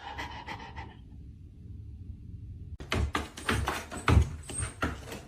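A faint low rumble, then from about three seconds in a quick run of knocks and thumps, about four a second.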